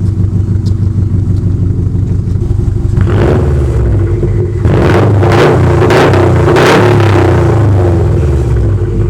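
2016 Subaru WRX STI's turbocharged 2.5-litre flat-four through an ETS Extreme cat-back exhaust with no mufflers or resonators, idling, then revved several times from about three seconds in and easing back toward idle near the end.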